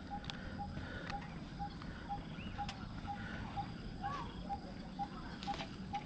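A bird repeating one short note at the same pitch about twice a second, with other birds chirping now and then and a few faint clicks.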